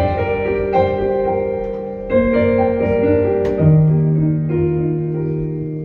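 Live piano playing the slow opening chords of a ballad, with a new chord struck roughly every second and a deep bass note entering a little past halfway.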